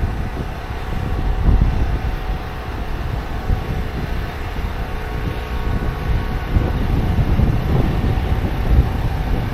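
City street traffic: a steady, low rumble of vehicles passing, swelling and fading.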